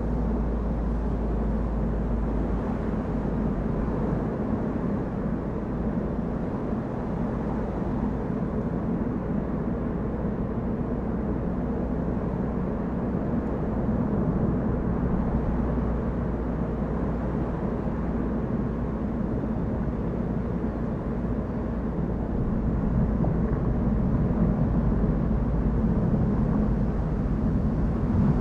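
Steady running noise of a car on the move: engine and tyre drone with a deep rumble underneath, growing a little louder over the last few seconds.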